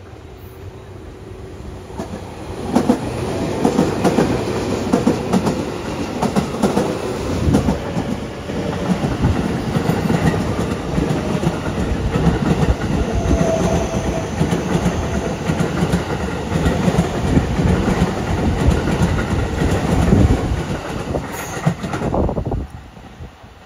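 JR West electric commuter train passing close by, its wheels clattering over rail joints in a dense run of clicks. The clatter builds up a couple of seconds in, stays loud for about twenty seconds, and cuts off suddenly near the end.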